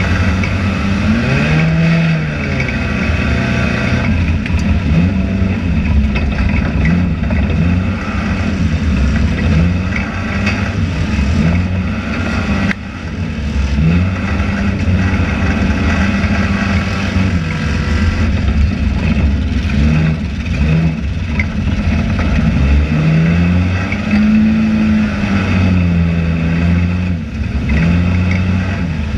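Enduro race car's engine heard from inside the cockpit while racing, its pitch rising and falling again and again as the driver comes on and off the throttle, over a steady low rumble.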